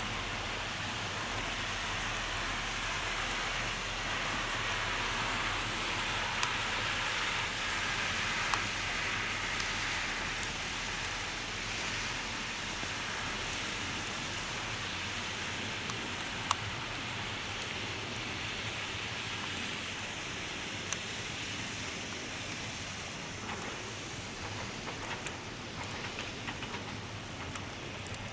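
Steady rain falling, a continuous hiss with a few sharp single drops hitting close by.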